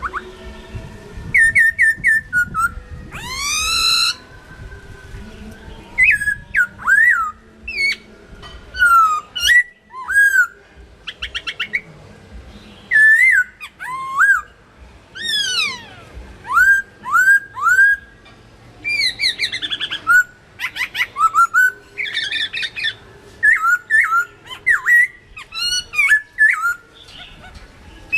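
Chinese hwamei singing: a loud, varied song of clear whistled phrases, with quickly repeated notes and slurred rising and falling whistles, delivered in bursts with short pauses between them.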